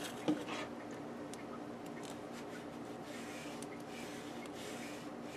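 A single sharp click just after the start, then faint scattered ticks from handling small objects over a steady low hum.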